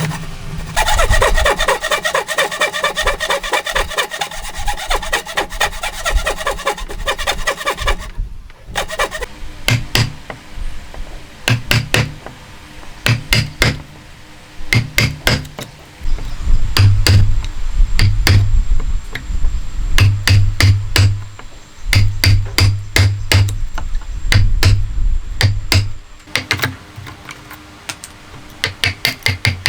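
Hand tools on wood: quick rubbing strokes for the first several seconds, then many separate hammer strikes, some in quick groups.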